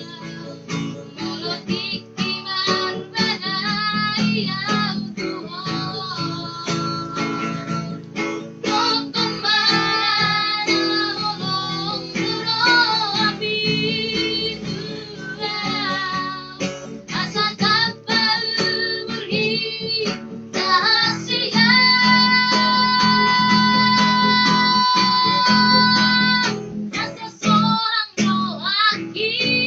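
A high voice singing over strummed acoustic guitar. About three-quarters of the way through, it holds one long, very high note for about four seconds.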